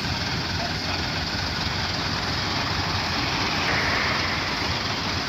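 Truck engine and exhaust running steadily, swelling slightly about four seconds in.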